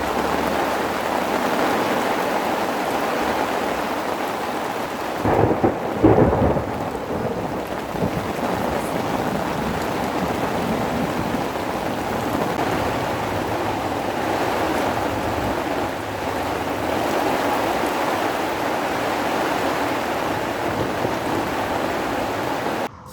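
Heavy rain falling steadily, with a loud rumble of thunder about five to six seconds in. The sound cuts off abruptly near the end.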